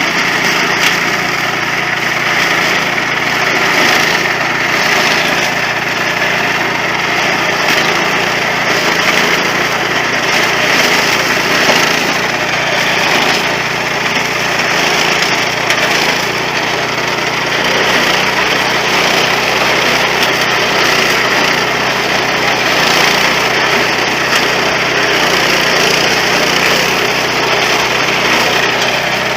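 Mini corn combine harvester running steadily: its small engine runs at a constant speed under a dense mechanical clatter, with the engine note shifting slightly partway through.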